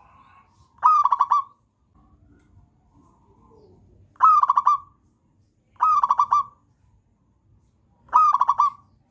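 Zebra dove (perkutut) cooing: four short phrases, each a quick run of clipped notes, coming every two to three seconds, with fainter, softer cooing in between.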